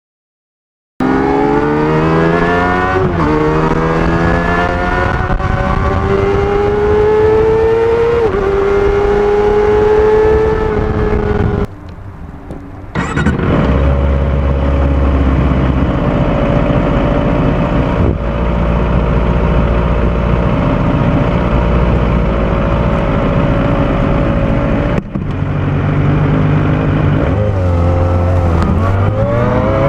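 Kawasaki ZX-25R's 250 cc inline-four on its stock exhaust, accelerating with a rising pitch through upshifts about two and eight seconds in. The sound drops briefly near the middle, then runs steadily at speed, with further shifts near the end.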